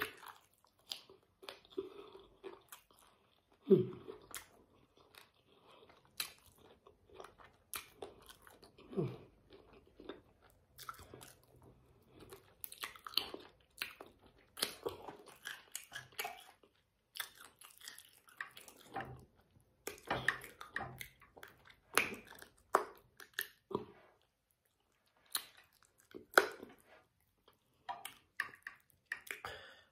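A person chewing and biting spicy chicken feet close to the microphone: irregular crunches and wet clicks, the loudest about four seconds in.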